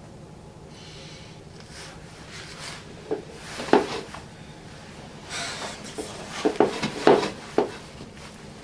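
Scattered knocks and rustling over a steady low hum: a sharp knock about three seconds in, then a quick cluster of knocks near the end.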